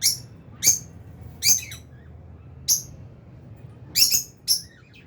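Lovebirds giving short, shrill chirping calls, about six single calls at uneven intervals, two close together near the end, over a faint low hum.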